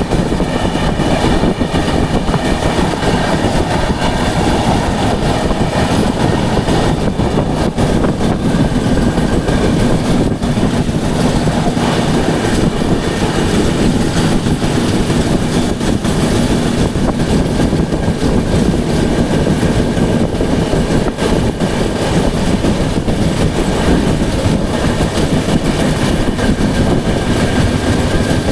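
Express passenger train running at speed: a steady, loud rumble of wheels on the rails that holds unbroken throughout.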